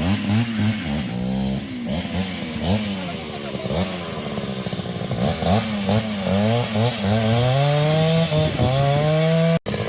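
Chainsaw engine revving up and down again and again as the throttle is opened and eased off, then held high and rising for a couple of seconds near the end. It cuts off abruptly for a moment just before the end.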